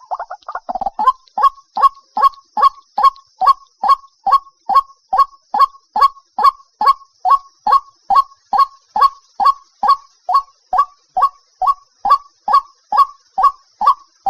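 White-breasted waterhen calling: a jumbled run of notes in the first second, then a monotonous train of short, identical downward-sweeping notes, about two and a half a second.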